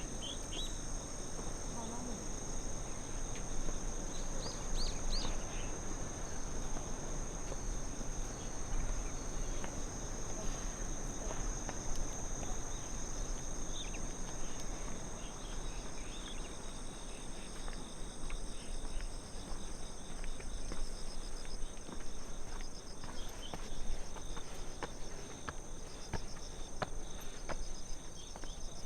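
Insects, crickets by the sound of them, trilling steadily in several unbroken high tones over even low background noise. A few short chirps come about four to five seconds in, and scattered sharp ticks near the end.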